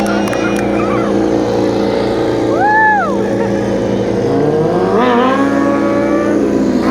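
Racing motorcycle engine idling with throttle blips: a quick rev up and back down about three seconds in, and a longer rising rev about five seconds in.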